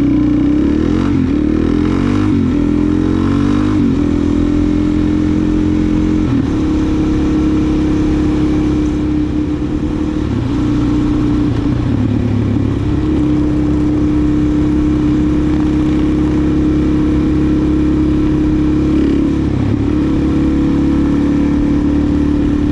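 Suzuki DR-Z400SM's single-cylinder four-stroke engine running under way. It rises and falls in pitch over the first few seconds, then holds a steady cruising note with small changes in pitch.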